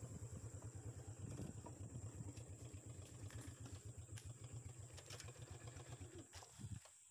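Small motorcycle engine running at low revs with an even low putter, dying away about seven seconds in.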